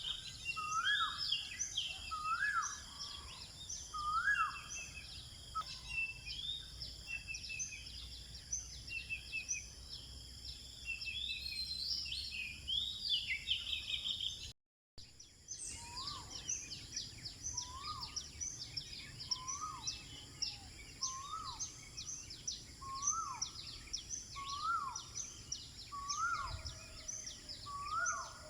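Dawn chorus of several birds. One repeats a short note that rises then drops, about once a second, over a busy mix of high chirps. Steady high-pitched tones run underneath, and the sound cuts out briefly about halfway through.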